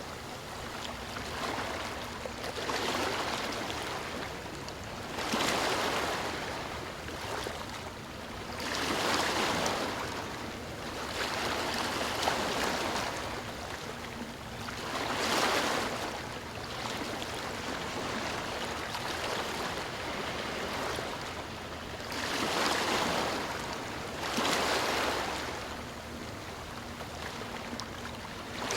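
Sea waves washing in, a steady rush of surf that swells and fades again every few seconds.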